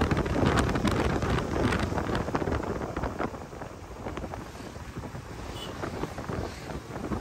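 Wind buffeting the microphone of a rider on a moving motorcycle, a dense rush with road and engine noise underneath and scattered small clicks. It is loudest for the first few seconds and eases off about halfway through.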